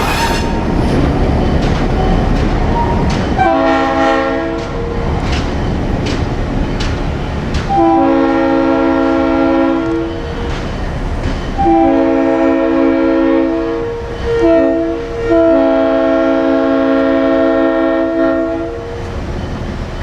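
Diesel locomotive's multi-note air horn sounding the grade-crossing signal, long, long, short, long, over the running locomotive and its wheels clicking over rail joints.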